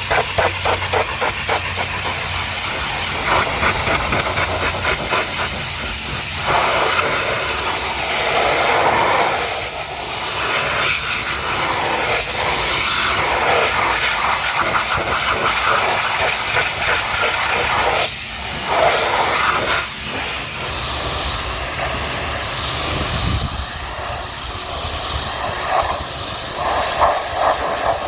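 High-pressure washer jet spraying a muddy truck: a loud, steady hiss of water that keeps shifting in tone and strength.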